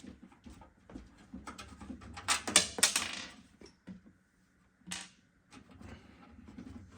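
Clicks and rattles of a computer case's hard-drive cage being handled and worked loose. The loudest part is a rattling, scraping stretch about two and a half seconds in, and there is a single sharp clack around five seconds in.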